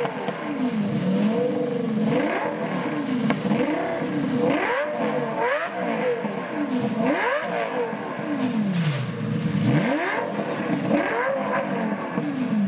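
Lamborghini Gallardo's V10 engine revved over and over through oversized five-foot cone-shaped exhaust tips, loud, its pitch climbing and falling roughly every second and a half.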